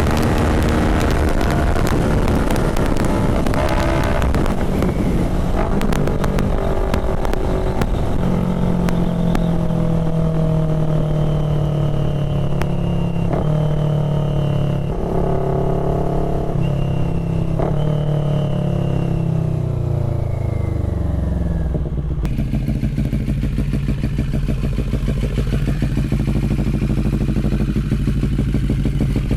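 CFMoto 400NK parallel-twin motorcycle being ridden on an aftermarket SC Project replica exhaust. The engine note holds and steps in pitch through the middle, falls away about 21 seconds in, then settles into a steady low run.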